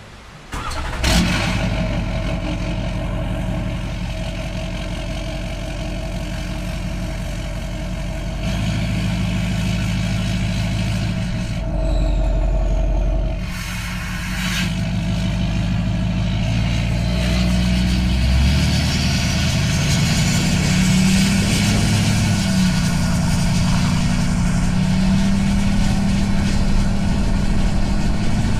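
Duramax V8 diesel with a straight-piped exhaust, running loud. It cuts in suddenly about a second in, and its note steps up and down in pitch, rising through the second half as the truck accelerates.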